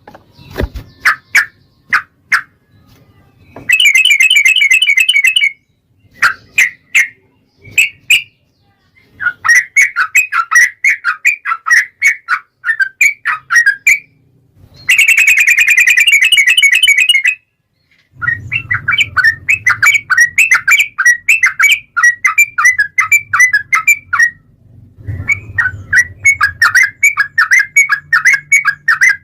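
Yellow-vented bulbul singing: loud runs of quick chattering notes, broken by two long, dense rapid trills, one about four seconds in and one about fifteen seconds in.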